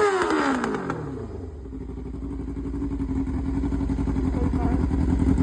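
Motorcycle engine dropping in pitch as the throttle comes off, then running at a steady, even beat that slowly grows louder.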